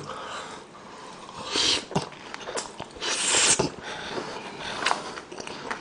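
A person chewing a big mouthful of sauce-soaked sweet-and-sour beef, with small wet mouth clicks. There are two breathy huffs of air through the mouth, about one and a half seconds in and a louder one around three seconds in.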